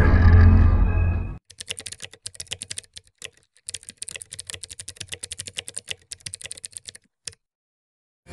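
Loud music with a deep rumble cuts off about a second and a half in. Rapid keyboard typing clicks follow for about six seconds, with a few short pauses, then stop.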